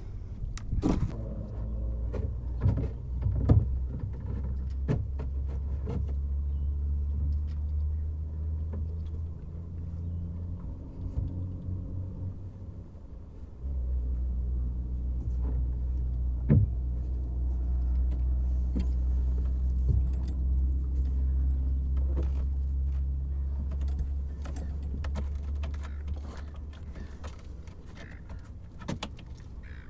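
A steady low engine hum with a pitched drone, breaking off for a moment about twelve seconds in and then resuming, with scattered knocks and clicks over it.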